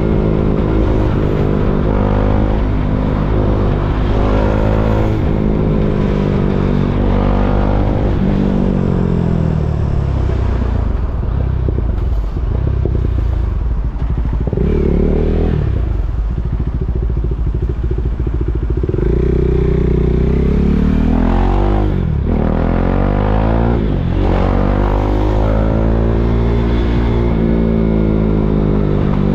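KTM Duke 390's single-cylinder four-stroke engine, heard from on the bike, pulling away and easing off again and again in stop-and-go traffic. Its pitch rises and falls many times, with quick dips between rises that sound like gear changes.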